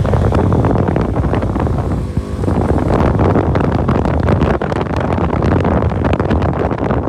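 Wind buffeting the microphone while riding a motorcycle on a rough track, with engine noise underneath and many short knocks and rattles throughout.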